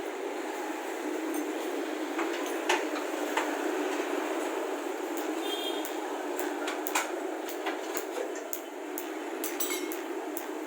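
Scattered light metal clinks and taps of tools and exhaust parts being handled, over a steady background noise.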